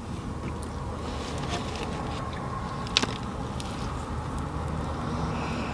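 Steady low hum inside a car cabin, with a single sharp click about three seconds in.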